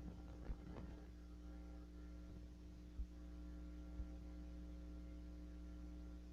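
Steady low electrical hum, mains hum with a stack of even overtones, plus a few faint soft knocks.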